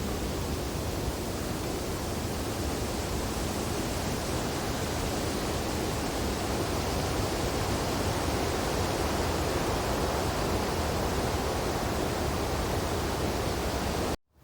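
Wind blowing steadily through tree branches in snowfall, an even, unbroken noise. It cuts out suddenly for a split second near the end, then resumes.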